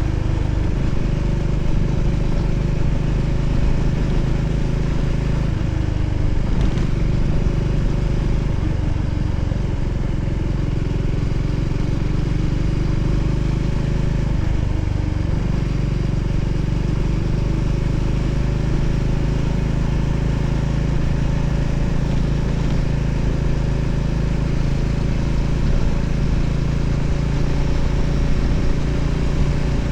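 Voge 300ACX single-cylinder motorcycle engine running steadily under way, with road and wind noise; its pitch shifts briefly twice.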